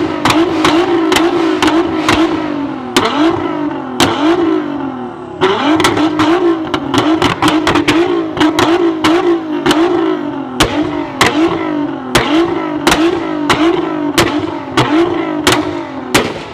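Tuned sports car engine revved in quick repeated blips, about one to two a second, with sharp exhaust pops and bangs cracking between the revs. It eases briefly about five seconds in, then picks up again.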